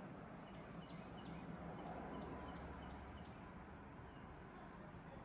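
Small birds chirping outdoors: short, high chirps repeating about twice a second, some with a quick falling note, over a faint steady low hum.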